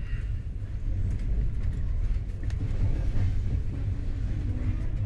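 Shatabdi Express train at the platform, a steady low rumble of its running with a few faint clicks over it.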